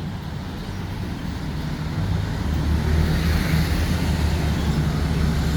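A road vehicle passing close by: a low, steady engine rumble that grows louder about two seconds in and holds.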